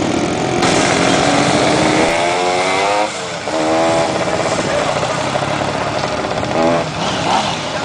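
Motorcycle engines running as bikes ride past in a parade. One engine revs up, drops briefly about three seconds in, then climbs again.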